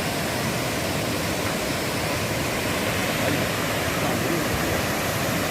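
Waterfall: the steady rush of falling water, a constant even noise with no break or change.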